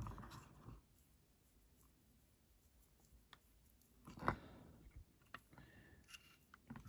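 Near silence with a few faint, short clicks and knocks of small parts being handled, the clearest about four seconds in.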